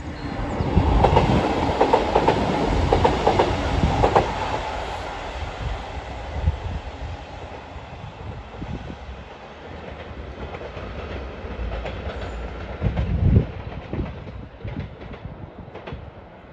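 Northern Class 158 diesel multiple unit running past and away, its wheels clicking rhythmically over the track. It is loudest in the first four seconds or so, then fades as it draws off. A low wind rumble on the microphone runs underneath, with a gust about thirteen seconds in.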